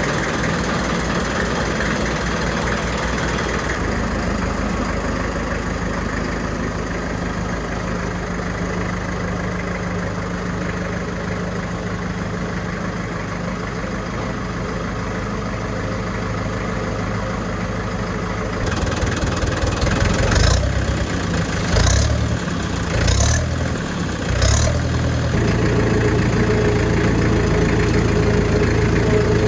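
McCormick International B-375 tractor's four-cylinder diesel engine running at idle after a cold start. Past the middle it is blipped four times in quick succession, each a short loud surge, then it settles into a steady, slightly faster run.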